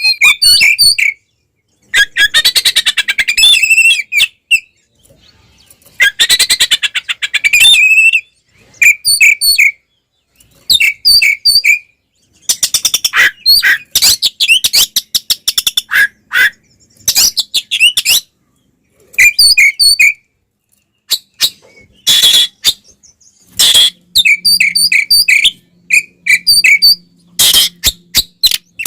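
Oriental magpie-robin (kacer) singing a loud, agitated fighting song: groups of short, repeated whistled notes alternating with harsh, fast rattling passages of about two seconds each.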